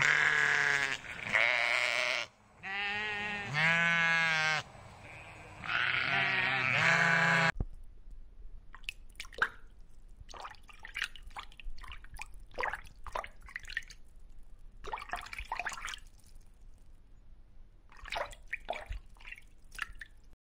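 Sheep bleating: about five loud, wavering bleats over the first seven seconds. The sound then cuts off abruptly to faint bubbling and dripping from air bubbles rising in an aerated fish tank.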